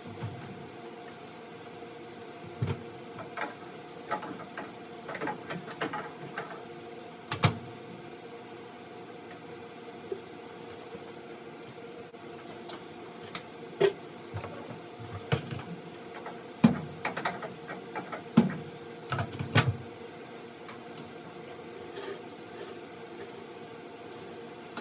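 Scattered metallic clinks and knocks of an adjustable wrench and hands working a hot water heater's water-line fitting, in two clusters, over a steady hum.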